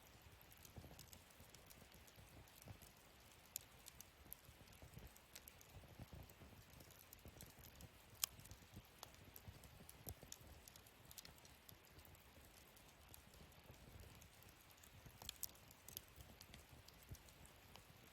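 Wood fire burning in a fire-pit stand, crackling with scattered sharp pops, the loudest about eight seconds in, over a faint low rumble.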